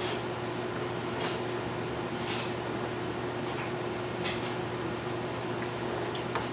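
A few short, light scrapes and clicks from hands and a small tool working on a guitar's bridge, spaced a second or so apart, over a steady low hum.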